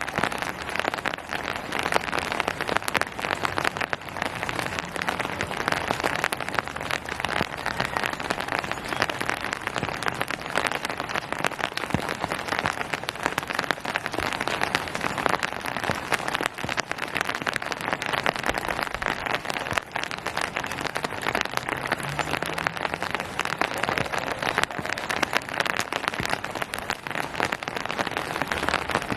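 Steady rain falling on hard surfaces and foliage, a dense patter of many small drop impacts.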